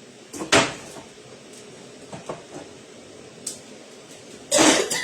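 Kitchen cupboard door knocking shut about half a second in, then a few light knocks and a click of things being handled, and a louder short burst of noise near the end.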